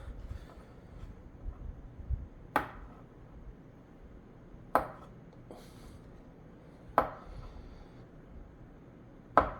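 Four sharp clicks about two seconds apart: fingers working at the plugs in the KEF Q150's binding posts, trying to prise them out without them coming free.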